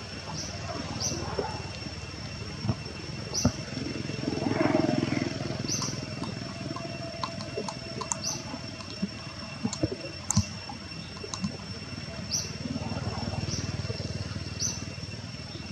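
Rain falling on standing water, a steady pattering hiss with scattered small drips. Over it runs a steady high insect whine, with short high chirps every second or two. A louder swell of noise comes about five seconds in.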